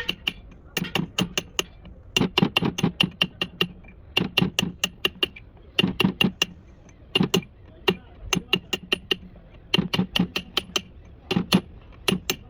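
Quick metal-on-metal tapping, as from hammering on steering box parts: bursts of about four to six ringing strikes a second, with short pauses between the bursts.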